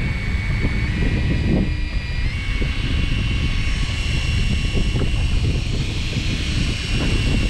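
Fishing boat's engine running with a steady low rumble, plus a thin high whine that shifts pitch about two seconds in.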